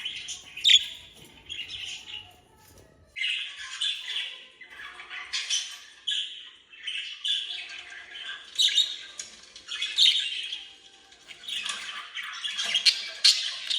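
Budgerigars chattering and warbling: a dense, continuous run of chirps, clicks and sharp squawks, with a short lull a few seconds in.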